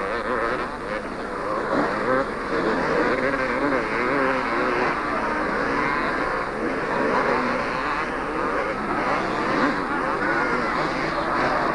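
Several two-stroke 250 cc motocross bikes racing, their engines revving up and down and overlapping in a constant buzz.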